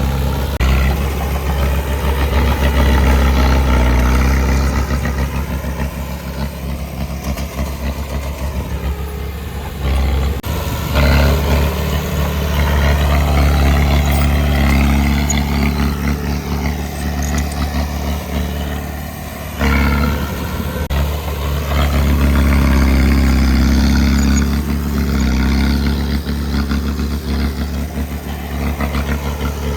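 Heavy diesel engine of earthmoving machinery working continuously, its engine note surging louder three times under load, with some clatter.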